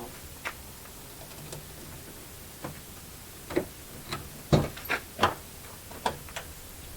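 A run of irregular sharp clicks and knocks, loudest a little past the middle, with no engine cranking or running.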